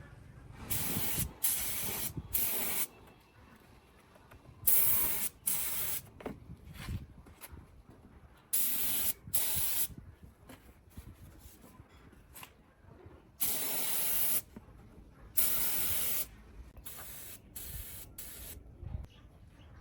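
Short hissing spray bursts, about a dozen, each lasting under a second and mostly coming in pairs or threes, during bodywork on a heavy truck.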